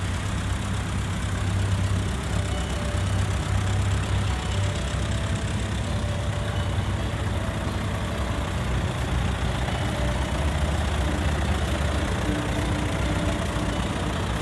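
Vintage farm tractor engines running at low speed as the tractors drive slowly past: first a gray Ferguson-type tractor pulling a hay wagon, then an Allis-Chalmers. The engine sound is a low, steady rumble.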